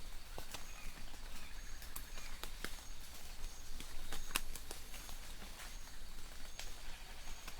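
Light rain in a forest: scattered drops tapping irregularly on leaves over a faint hiss, with distant birds giving short high chirps again and again.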